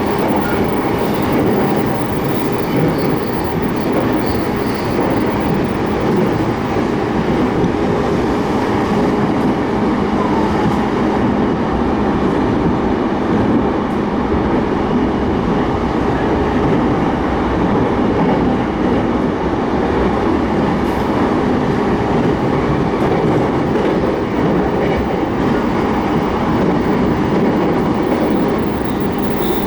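Keiyo Line rapid train running between stations, heard from inside the car: a steady rumble of wheels on rail and running gear.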